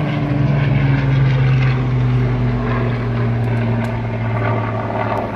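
Aircraft engine running loudly with a steady hum that slowly falls in pitch.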